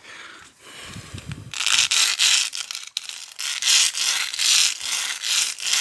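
A new razor blade's edge being scraped back and forth against a rough surface to dull it. A run of rasping strokes, about two a second, starts about a second and a half in.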